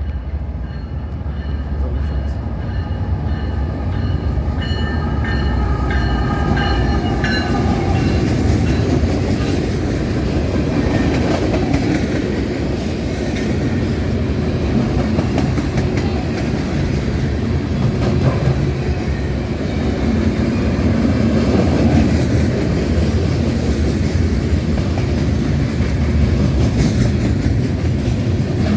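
A train rolling past on the tracks: a steady heavy rumble of wheels on rail with clickety-clack. Several high thin tones sound together for the first several seconds and then fade.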